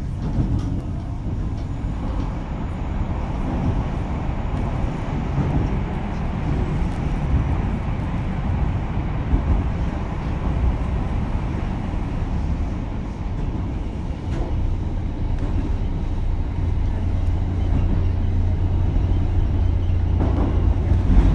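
Running noise inside a JR Kyushu BEC819 series battery-electric train under way: a steady rumble of wheels on rail and the car body. It grows stronger and louder in the last few seconds.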